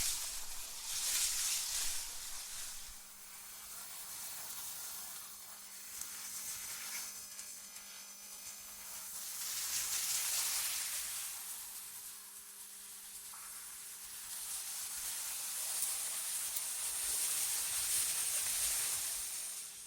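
AI-generated wind ambience: a hissing rush of wind that swells and eases in slow gusts, with a faint steady low hum underneath.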